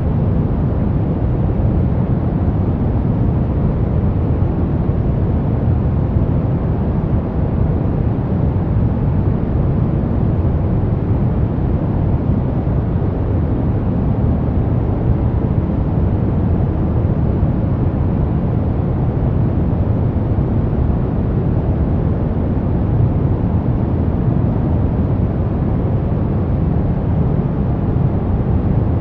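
Brown noise: a steady, deep hiss, strongest in the low end and dull in the highs, with no tones or changes.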